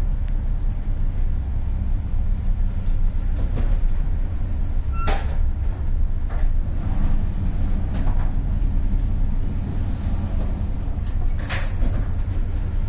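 Steady low rumble aboard a ship rolling in a storm, with two sharp clanks, one about five seconds in and one near the end.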